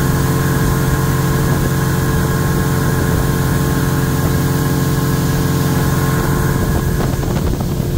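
Tour boat's engine running at a steady speed, a constant hum heard from aboard, easing slightly near the end.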